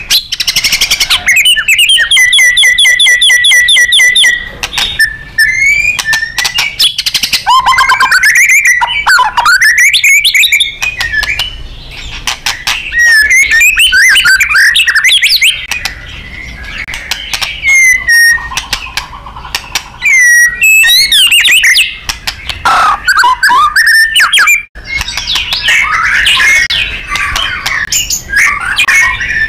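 White-rumped shama singing loudly and without pause: varied whistled phrases with sliding notes, a fast rattling trill early on, and sharp clicks and ticks between phrases.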